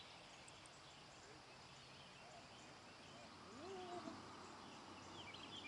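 Faint outdoor ambience with birds chirping, and one longer, lower call that rises and then holds about three and a half seconds in.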